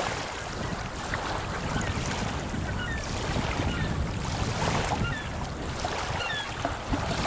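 Wind rushing and buffeting the microphone, with a low rumble. Faint, short seabird calls sound every second or so through it.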